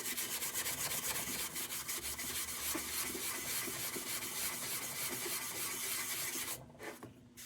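Rusted tinplate on a lantern being scrubbed by hand with an abrasive, rapid back-and-forth scratching strokes that stop near the end, done to test whether the tin plating survives under the heavy oxidation.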